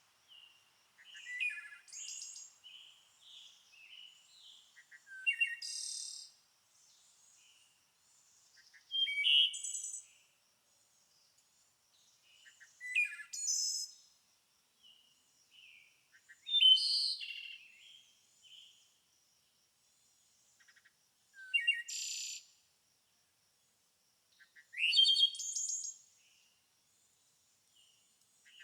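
Songbirds singing: short phrases of chirps, trills and rising whistles that come again every three to four seconds.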